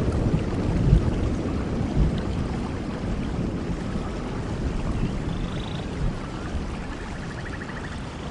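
Steady rainforest rain, with a low rumble of thunder dying away over the first seconds. A short high call and a brief trill sound near the end.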